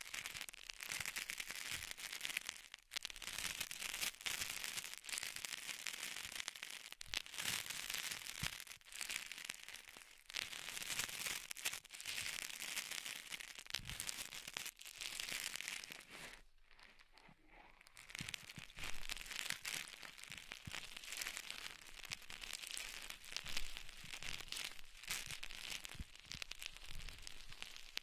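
Dense, continuous crinkling and crackling, full of fine clicks, as an ASMR trigger, with a short lull about two-thirds of the way through.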